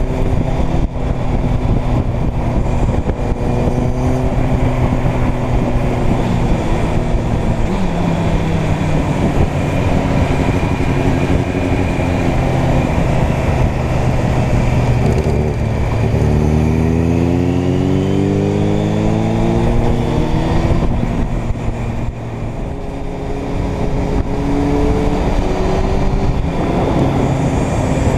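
Motorcycle engine running under way. The engine note falls about eight seconds in. Around sixteen seconds in it dips, then climbs steeply as the bike accelerates.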